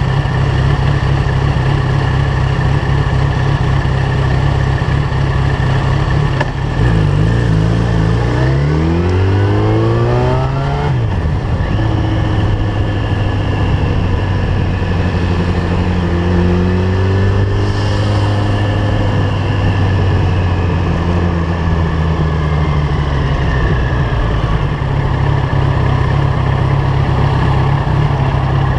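Yamaha FZ1's inline-four engine with a LeoVince GP-style aftermarket exhaust, idling, then revving up through the gears as the bike pulls away about seven seconds in. It runs steadily at speed, then drops back to idle in the last few seconds as the bike comes to a stop.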